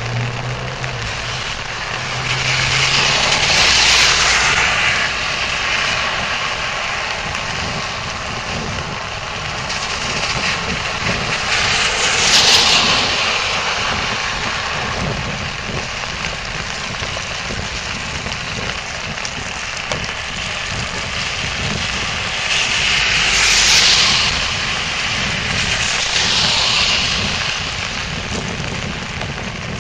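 Heavy rain drumming on a bike umbrella's clear plastic canopy overhead, mixed with the hiss of bicycle tyres on the wet road. The noise swells louder four times, then settles back.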